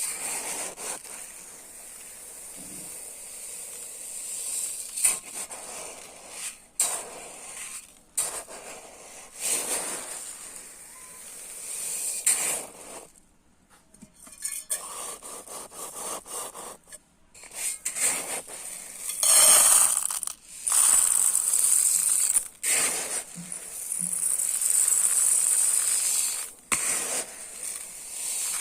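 Dry rice grains being scooped and poured: a hissing rush of falling grains in a series of pours lasting from a second to several seconds, broken up by scrapes and clicks of the scoop against the container. The longest and loudest pours come in the second half.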